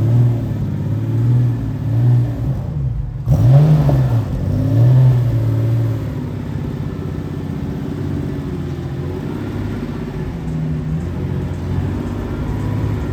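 Car engine blipped several times, its pitch rising and falling with each rev, then settling into a steady, lower running note from about six seconds in. The sound cuts out briefly about three seconds in.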